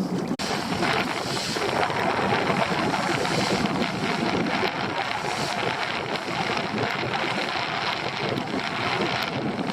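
Steady wind buffeting the microphone aboard a small fishing boat, over a constant rush of wind and water.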